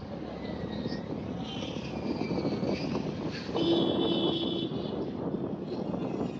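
Road traffic passing, with a vehicle horn held for about a second just past the middle.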